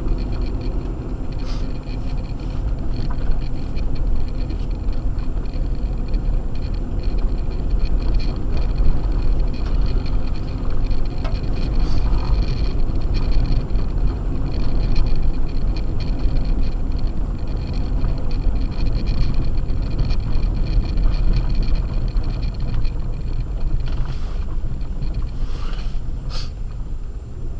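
Acura MDX driving on a snow-covered road on Sumitomo Ice Edge winter tyres: a steady low rumble of tyre, road and engine noise, with a faint steady high whine over it.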